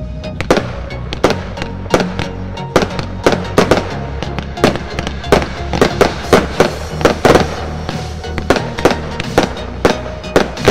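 Evolution Fireworks '3 Times Heaven' firework compound firing: a rapid, irregular run of aerial shells bursting with sharp bangs, about two to three a second, starting about half a second in. Music plays underneath.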